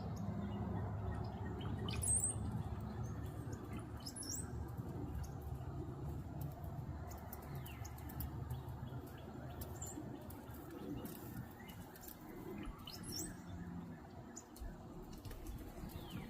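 Small songbirds giving a few short, high chirps now and then over a steady low rumble.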